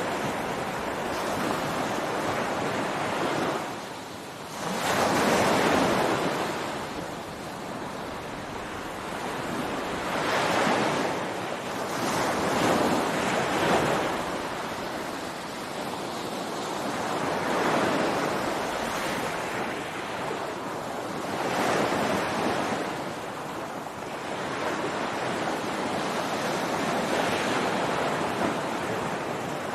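Ocean surf on a beach: waves breaking and washing in, swelling and easing every few seconds over a steady hiss, with a dip just before a loud surge about five seconds in.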